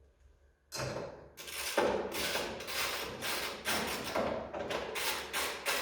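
Wrench, most likely a ratchet, tightening the bolts on a car's hood hinges: after a brief silence, a quick series of short rattling strokes, about three a second.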